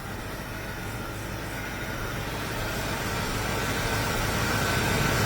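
Classic car's 327 cubic-inch small-block Chevrolet V8 idling steadily just after being revved, the sound slowly getting louder.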